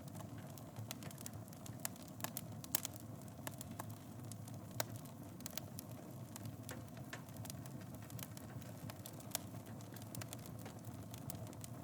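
Wood fire burning in a fireplace: a steady low roar of the flames with irregular sharp crackles and pops, a few of them louder, about a quarter of the way in.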